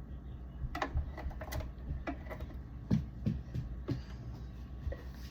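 Irregular light clicks and knocks of things being handled, several a second at times, over a steady low hum.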